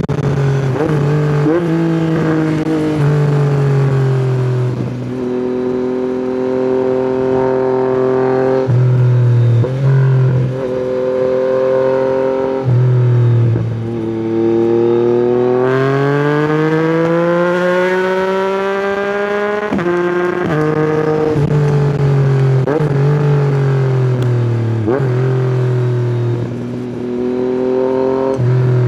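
Yamaha MT-09's three-cylinder engine through an Akrapovic exhaust, accelerating hard through the gears. Its pitch climbs and then drops sharply at each upshift, several times. About halfway through it makes one long, steady climb in pitch lasting several seconds.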